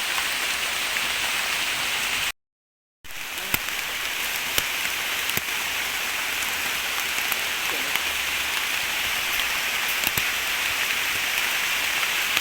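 Steady rain falling, an even hiss with scattered sharp ticks of single drops. The sound cuts out completely for under a second about two seconds in, then the rain resumes.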